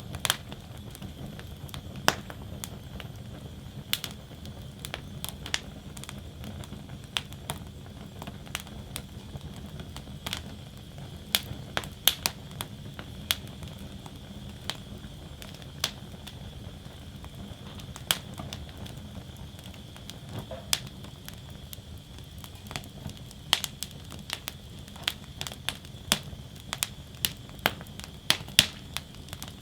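Wood fire crackling in a fire basket: sharp pops and snaps at irregular moments, coming more often near the end, over a steady low rumble of the flames.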